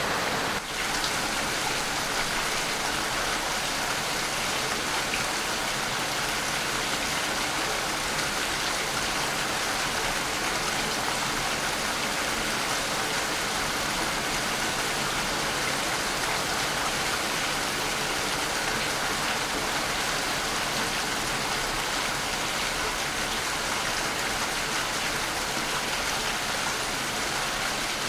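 Rain falling steadily, an even continuous hiss of drops, with a momentary dip just under a second in.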